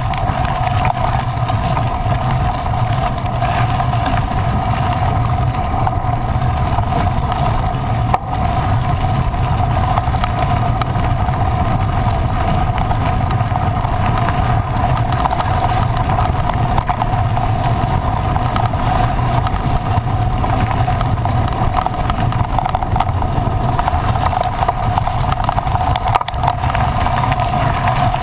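A vehicle engine running at a steady, constant speed, a continuous drone with a fixed hum and a low rumble.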